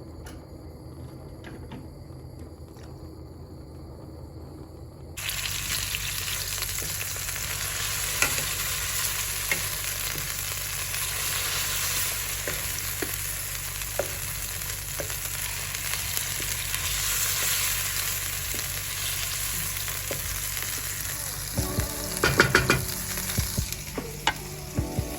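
Chicken frying and sizzling in a hot pan, a dense steady hiss that starts abruptly about five seconds in. A quick cluster of sharp knocks sounds near the end.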